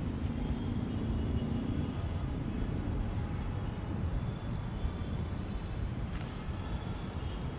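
Steady low rumble of outdoor street background noise, like distant traffic, with a short faint click about six seconds in.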